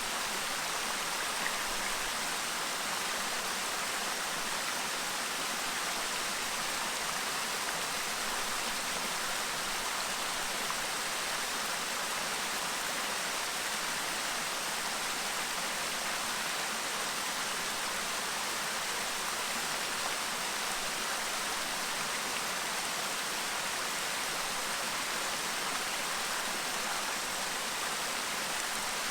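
A clear stream babbling: a steady rush of water with no breaks or changes.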